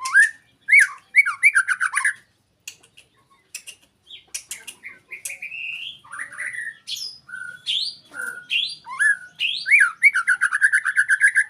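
White-rumped shama (murai batu) singing a varied song of rising whistles, harsh squawky notes and rapid rattling trills, ending in a long fast trill.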